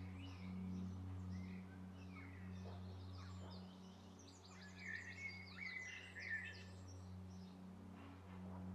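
Birdsong: scattered chirps and trills, with a busy flurry about five to six seconds in, over a low steady drone.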